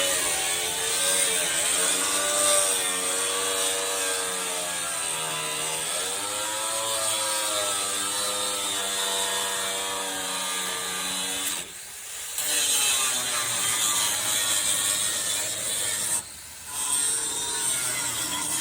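A powered ratchet-type tool running, a steady mechanical buzz whose pitch wavers up and down. It cuts out briefly about twelve seconds in and again a few seconds later.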